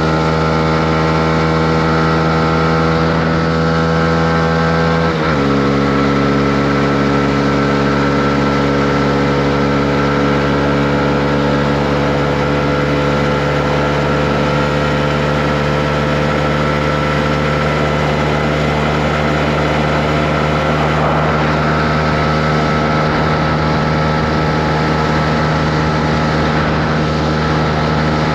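Honda CB125R's single-cylinder 125 cc engine running under way on the road, heard from on board. Its note holds steady, steps down in pitch once about five seconds in, then holds steady again.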